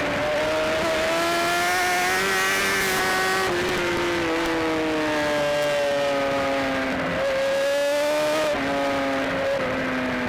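BMW S1000RR inline-four race bike engine at high revs, heard onboard over wind rush; its pitch climbs and drops several times as the rider works through the gears and brakes for corners.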